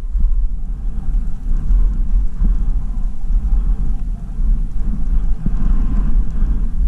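Wind buffeting the microphone while skiing fast downhill, a loud, uneven low rumble, with a fainter hiss of skis running through snow.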